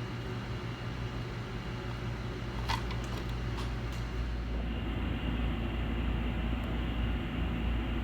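Steady machine hum and hiss with a few light clicks about three seconds in; the hum changes tone about five seconds in.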